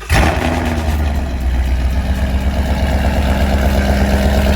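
2015 Mustang GT's 5.0-litre V8 firing up with a brief flare, then settling into a steady idle. The exhaust runs through catless long-tube headers, an H-pipe and Roush axle-back mufflers.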